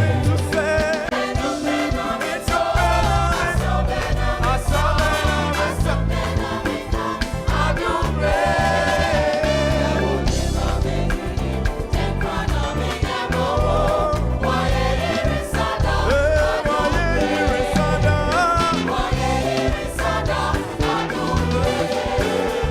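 Gospel music: a group of voices singing over a steady band with bass and drums.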